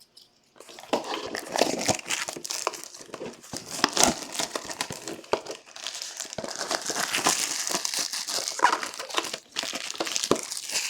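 Plastic packaging crinkling and crackling as it is handled, with many small clicks and taps throughout.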